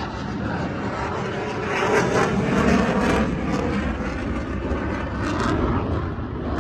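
Airplane engine noise from an aircraft flying at an airshow, a dense steady rush that swells about two to three seconds in and then eases slightly.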